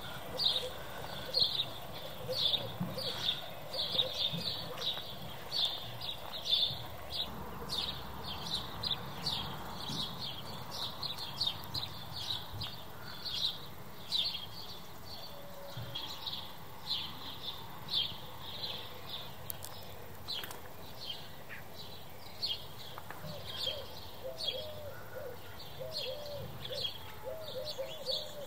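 Small birds chirping in a rapid string of short, high notes, about two a second, with some lower notes joining in near the end.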